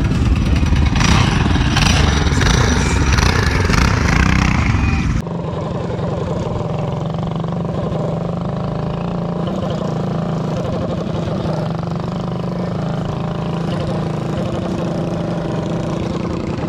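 Predator 212cc single-cylinder mini bike engines running, loud and dense for about five seconds. After an abrupt cut, a quieter, steady engine drone follows.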